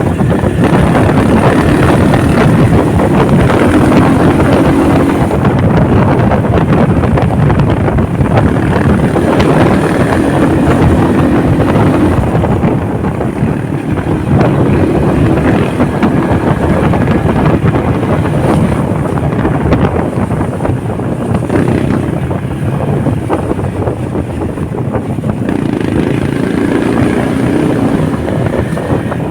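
Heavy wind rush on the microphone of a moving Honda motorcycle, with the engine's hum coming through in stretches.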